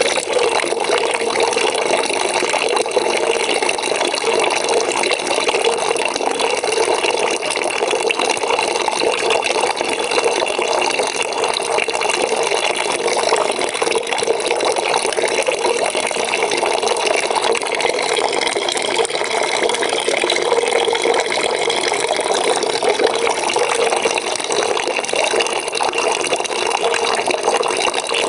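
Water from a tap pouring steadily into a bucket, a continuous even splashing rush.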